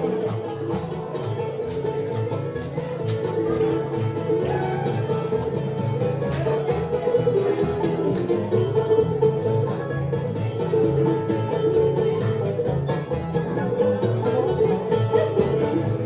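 Live bluegrass band playing an instrumental break, plucked string picking over an even bass beat with no singing.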